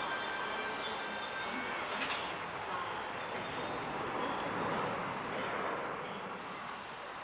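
Sydney Tangara electric train at the platform, with high thin squealing tones over a steady rushing noise. The squeal fades out around six seconds in and the noise drops away.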